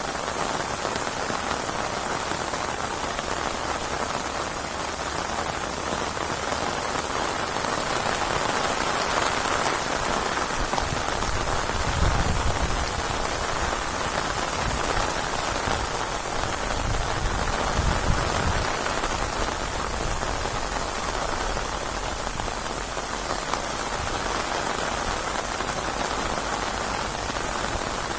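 Rain falling steadily and heavily, a dense even hiss of drops, with two low rumbles, about twelve seconds in and again around eighteen seconds.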